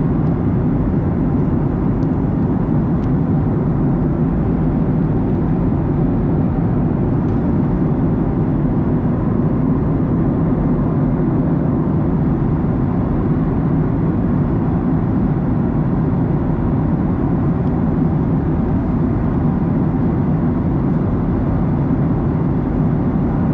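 Steady cabin noise of a Boeing 737-900ER in flight: the even, low-pitched rush of airflow and engines, unchanging throughout.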